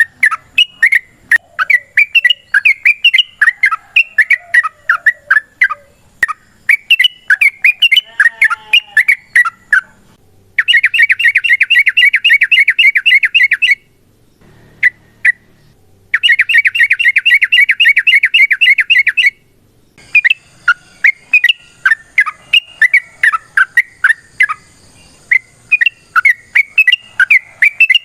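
Yellow-vented bulbul (trucukan) singing, a run of quick bubbly chattering phrases. Around the middle come two long, fast rolling trills, the "ropel" the bird is prized for, each about three seconds, with a short break between them.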